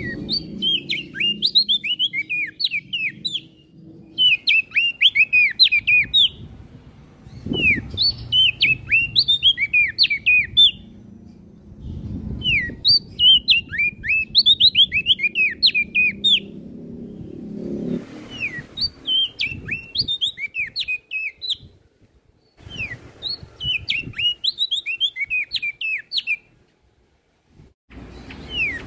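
Prenjak daun songbird singing in repeated phrases of rapid, high chirping notes. Each phrase lasts two to four seconds, with short pauses between them, over a low background rumble.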